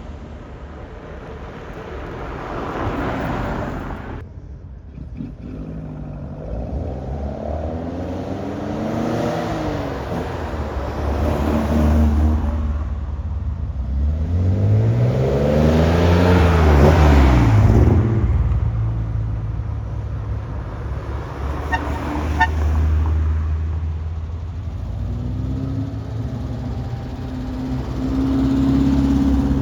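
Classic cars driving off one after another, their engines revving up and falling back in pitch several times as they pull away. The loudest rise and fall comes about halfway through.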